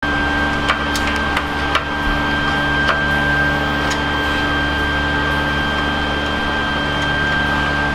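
A steady machine hum with a constant high whine over it, and a few light clicks and taps in the first few seconds.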